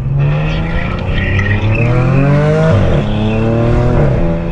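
Car engine accelerating hard through the gears: the pitch rises steadily, drops at an upshift about two and a half seconds in, climbs again and drops at a second shift near the end.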